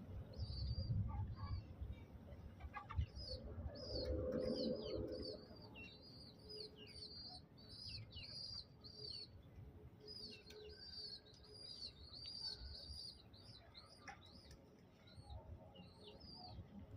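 Birds chirping in quick repeated series of short high notes, a few per second, over a low rumble, with a louder lower sound about four seconds in.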